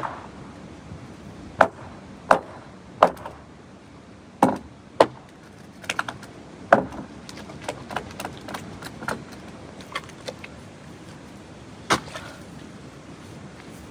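A series of sharp knocks at irregular intervals, about seven strong ones with lighter clicks and taps between them; the last strong knock comes near the end.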